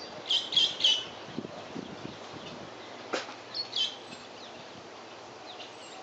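A bird chirping: a quick run of three chirps just after the start and two more a little before the four-second mark, with a single sharp click in between.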